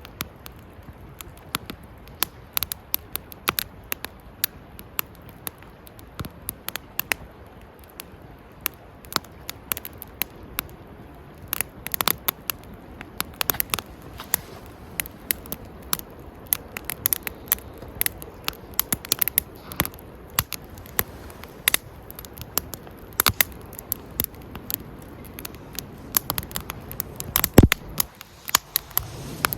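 Wood campfire crackling, with irregular sharp pops and snaps from the burning wood and one louder pop near the end.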